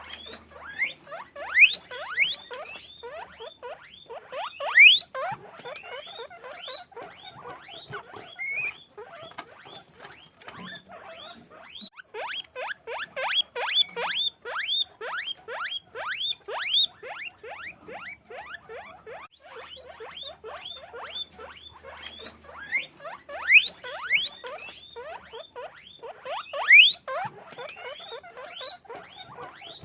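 Guinea pigs squeaking: a fast, continuous run of short rising squeaks, several a second and overlapping, with louder, longer squeals now and then. A faint steady high-pitched whine sits underneath.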